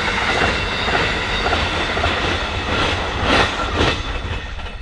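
Freight train wagons rolling past at speed, the wheels clicking over the rail joints with a steady rumble. Two sharper clacks come about three and a half and four seconds in, and the sound eases off near the end.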